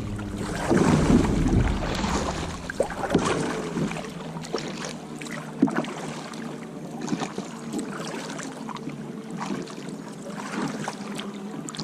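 Kayak paddling through a narrow wooded channel: paddle strokes splashing and dripping, with scattered short sharp knocks, loudest in the first couple of seconds. A faint steady hum runs underneath.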